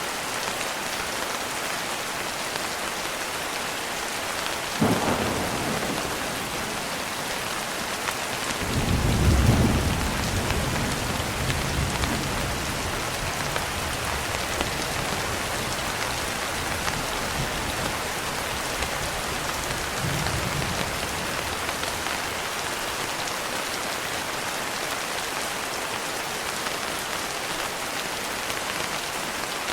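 Steady rain with thunder: a sharp crack about five seconds in, then a deep rolling rumble a few seconds later, the loudest sound, and a fainter rumble about twenty seconds in.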